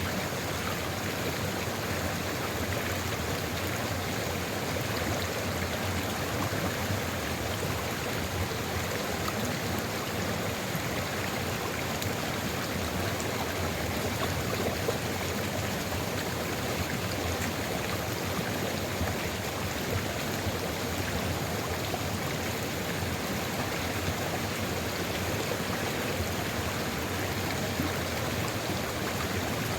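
Sulfur river water flowing steadily over its bed, an even, unbroken rushing babble with one slightly louder splash about halfway.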